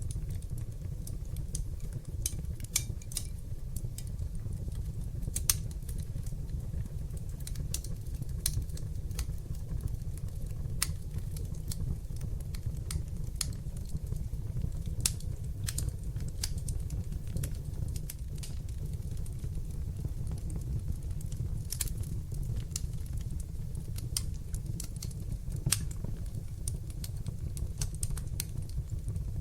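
Wood fire burning in a fireplace: a steady low rumble of flames under irregular sharp crackles, with a few louder pops scattered through.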